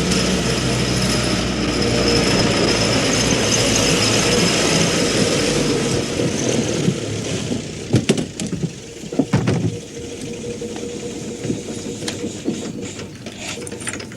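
Motor vehicle engine running loudly, then dropping away about seven seconds in, with a few knocks about eight to ten seconds in.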